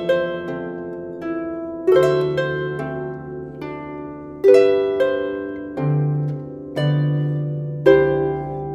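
Celtic harp (clarsach) playing a slow solo tune: plucked notes and chords, each struck and left to ring and fade, over sustained bass notes.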